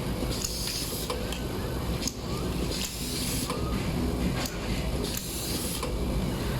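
Automatic screw-fastening machine running: a steady mechanical hum with sharp clicks repeating about every second and short hisses of air in between.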